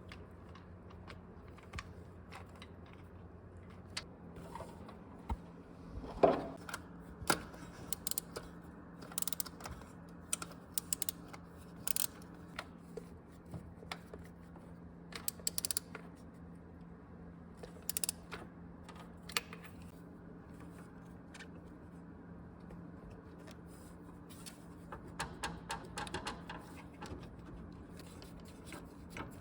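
Scattered clicks and knocks of hand tools and metal parts being handled during engine work, the loudest about six seconds in and a quicker run of light clicks near the end, over a steady low hum.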